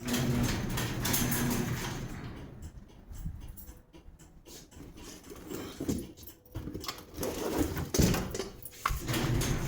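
Garage door opener motor starts suddenly with a low hum and the door rattling, dying away after about three seconds. A few knocks and clunks follow, and the motor starts again near the end.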